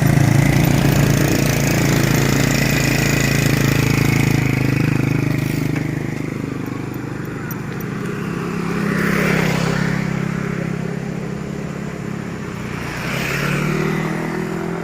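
Motor vehicle engines running close by: a steady engine note that fades out over the first several seconds, then two more vehicles swelling up and passing.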